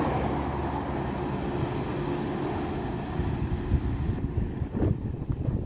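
Chiltern Railways Class 196 diesel multiple unit running past and away, its rumble fading. Wind buffets the microphone, most plainly in the last couple of seconds.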